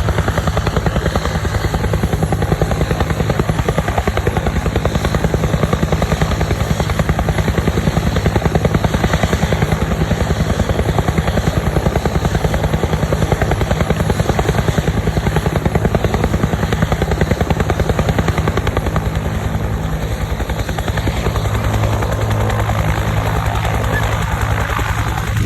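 Bell UH-1 Huey helicopter running loud, its two-bladed main rotor giving a rapid, steady beat of blade pulses.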